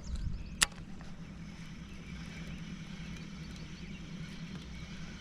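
A small boat motor running with a steady low hum. One sharp click sounds about half a second in.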